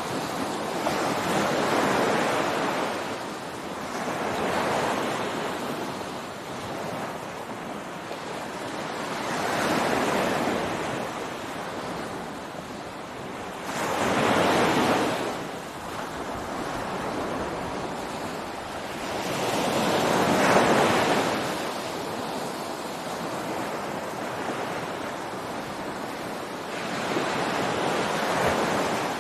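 Ocean surf breaking on a beach, the wash of the waves swelling and falling back every few seconds, with a few louder breakers standing out.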